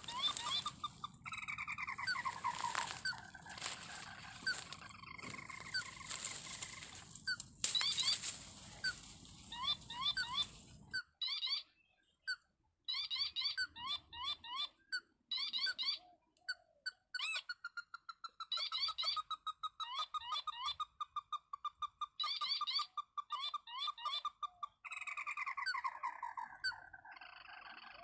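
A crake calling in runs of quick, sharp notes, the runs repeating over and over, as used to lure crakes to a snare. A background hiss under the calls cuts off suddenly about eleven seconds in.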